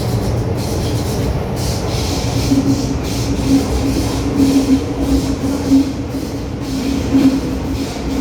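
MTR M-Train electric metro train running: a steady rumble of wheels and running gear, with a low hum that swells and fades.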